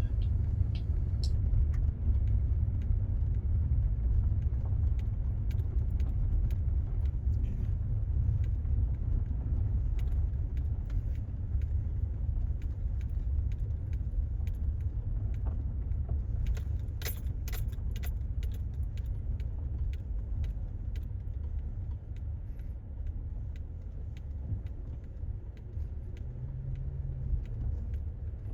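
Car driving slowly on a dirt road: a steady low rumble with scattered light rattles and clicks, and a cluster of sharper clicks a little past halfway.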